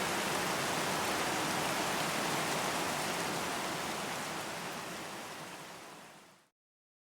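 Steady rain, an even hiss of falling drops, fading out over the last few seconds and then stopping.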